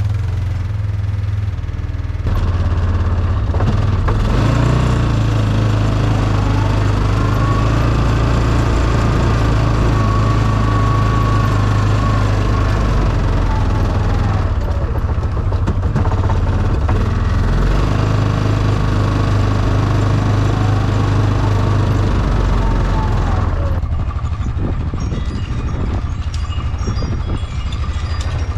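A vehicle engine running steadily and working under load, its pitch climbing and falling back twice as it revs up and eases off. It settles to a lighter running sound with some clatter near the end.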